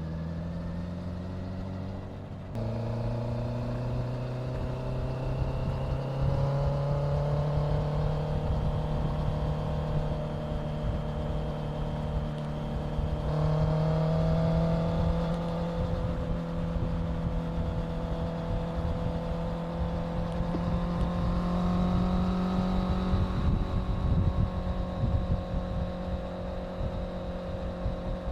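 Honda CBR650F inline-four engine under way. The revs ease off at first; a little over two seconds in the throttle opens and the engine note climbs steadily, steps up again about thirteen seconds in, then holds near a steady cruise. A low rumble of wind runs underneath throughout.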